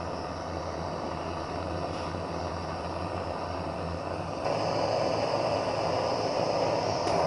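Handheld propane-butane gas torch burning with a steady hiss while its flame heats a seized crankshaft nut. About four seconds in the sound gets louder and sharper.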